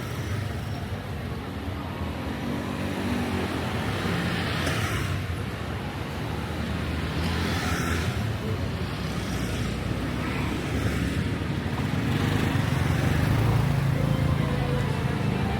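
Street traffic: motorbikes and cars running steadily, with vehicles passing by about four and about seven seconds in. The engine sound grows louder near the end.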